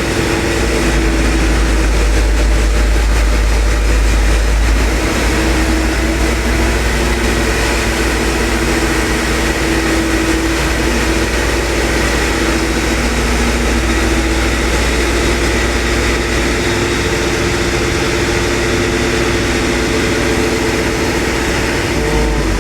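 Hitachi EX200-5 excavator's diesel engine running steadily with a deep rumble while the arm is worked on its hydraulics, testing the arm cylinder after its oil seal was replaced.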